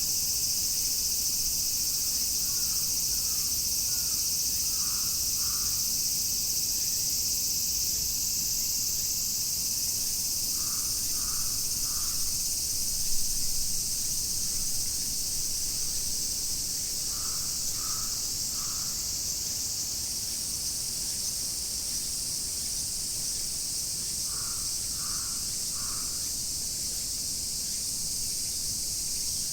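Chorus of cicadas shrilling in a steady, dense high hiss. A crow caws in sets of three, about four times.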